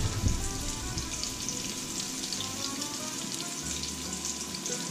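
Zucchini fritters sizzling and crackling steadily in hot oil in a frying pan.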